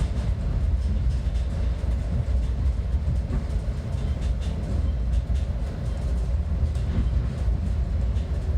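Metra commuter train running, a steady low rumble with faint clicks now and then.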